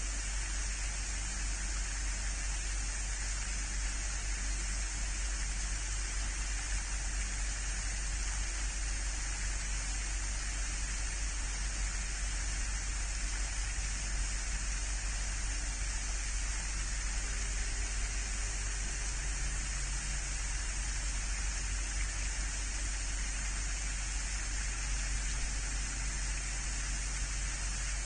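Steady, unchanging hiss with a constant low hum underneath.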